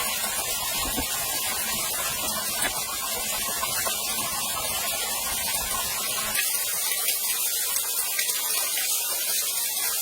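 Steady rush of a waterfall, an even hiss of falling water and spray; the low rumble underneath fades out a little after six seconds.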